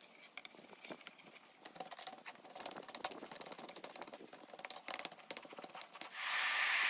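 Quick irregular small clicks and rattles of laptop parts being handled on a motherboard. About six seconds in, a blow dryer switches on and a steady loud hiss of blowing air takes over.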